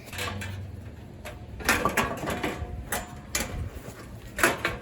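Raised garden bed panels knocking and clicking as they are hooked together by hand: a run of irregular sharp knocks and rattles, the loudest about halfway through and again near the end.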